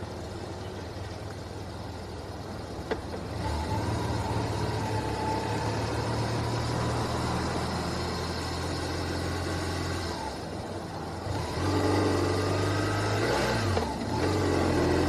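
A vehicle engine running, growing louder about four seconds in, easing off near ten seconds and picking up again soon after, with a brief shift in pitch near the end; a single click about three seconds in.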